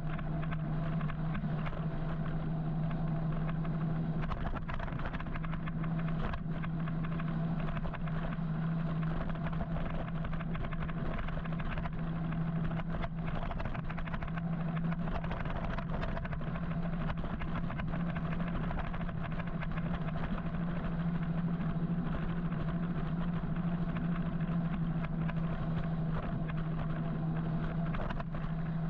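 Steady road noise from riding an electric motorcycle in city traffic: wind and tyre rush with a constant low hum.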